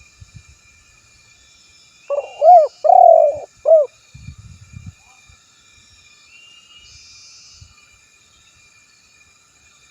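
Male spotted dove (tekukur) cooing one phrase of about four arched notes, about two seconds in, followed by a few soft low thumps. A faint steady insect drone and a few thin chirps from small birds sit behind it.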